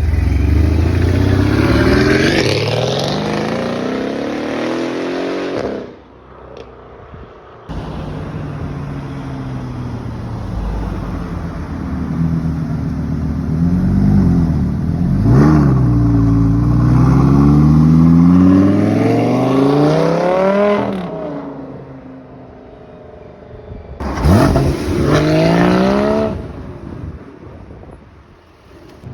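Performance car engines revving and accelerating hard away, one run after another, each rising steeply in pitch; a sharp dip and rise in revs comes about halfway through, and a last short burst of acceleration comes near the end.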